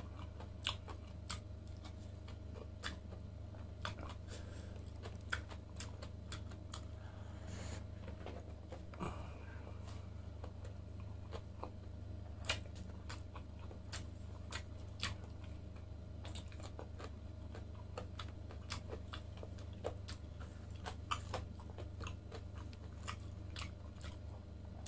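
A person chewing and biting grilled lamb close to the microphone: irregular wet mouth clicks and smacks, with a steady low hum beneath.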